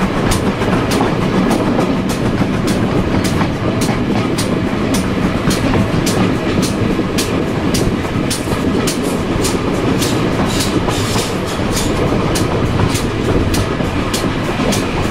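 Railway passenger coach running along the track: a steady rumble of the wheels on the rails with a regular clickety-clack, about three clicks a second, as the wheels cross the rail joints.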